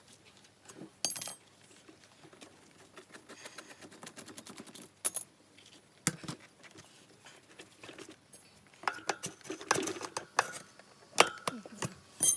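Metal tools and parts clinking and knocking as they are handled during hand work on a motorcycle's front wheel: scattered sharp clicks at first, getting busier and louder near the end.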